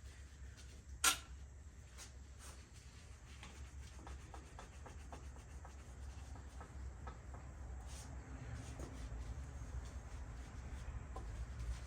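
Fine steel wool scrubbing a bicycle frame, with a scratchy rubbing sound, taking off light surface rust. A single sharp knock about a second in.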